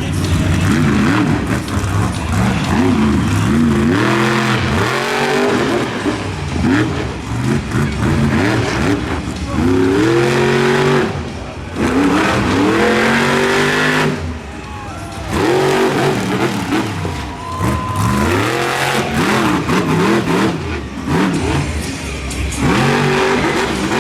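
Monster truck engine revving hard, its pitch rising and falling over and over as the throttle is worked through a freestyle run, with brief dips where it is let off.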